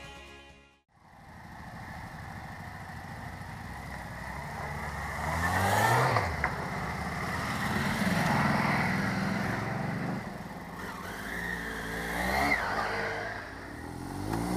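Motorcycle engine running on the road, its pitch rising and falling several times as the rider opens and closes the throttle. A brief dropout comes about a second in.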